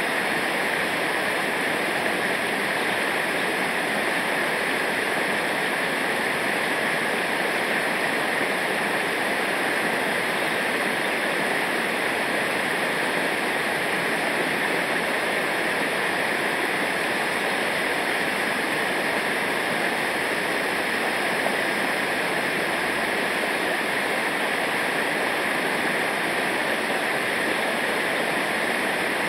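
Steady, even rush of fast-flowing river water, such as rapids or a waterfall.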